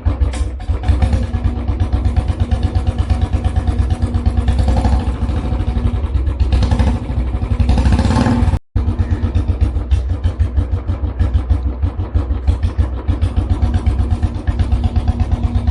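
Royal Enfield Classic 350's single-cylinder engine running through a new aftermarket exhaust, a steady rapid thump of exhaust pulses. The sound cuts out for a moment about halfway through, then resumes.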